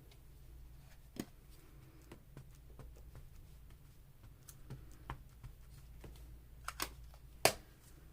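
Scattered light clicks and taps of small craft supplies being handled on a work table, with a sharper knock about seven and a half seconds in.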